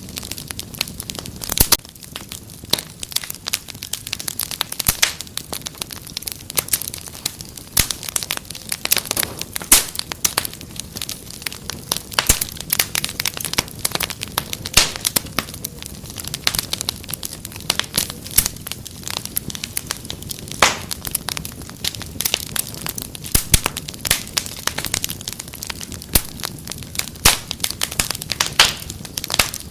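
Wood fire crackling: dense, irregular pops and snaps over a soft low rumble of burning, with no let-up.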